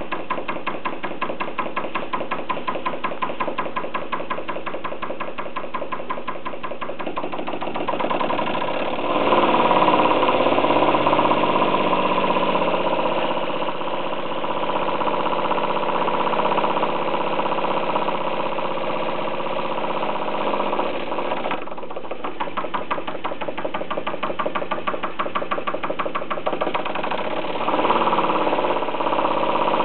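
Radio-controlled single-cylinder model marine steam engine running with rapid, even chuffing beats. It picks up and runs louder from about a quarter of the way in, with the beats blurring together. It drops back to distinct beats past two-thirds of the way, then picks up again near the end.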